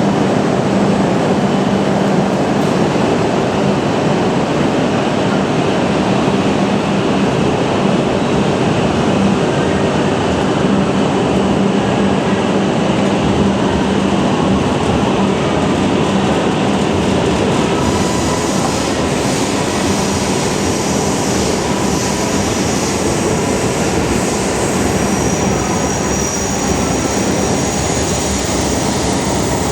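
Tohoku Shinkansen train running along the station platform: a loud, steady rush of wheel and motor noise with a low hum, joined by faint high-pitched whines about two-thirds of the way in.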